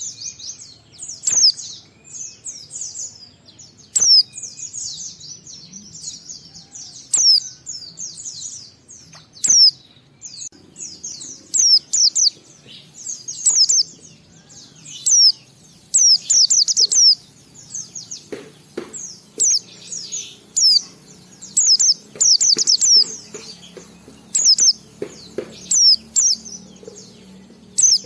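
A pleci (white-eye) singing in quick bursts of high, twittering chirps, one phrase following another every second or so in a long run of song. A few faint clicks are scattered through it.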